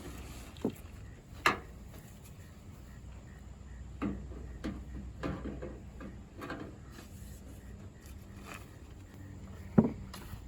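Scattered knocks, clicks and rustles from hands working tent straps and plastic clips against the truck, the sharpest knocks about a second and a half in and near the end.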